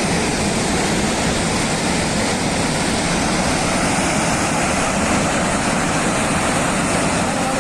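Floodwater rushing in a torrent: a loud, steady, unbroken rush of water.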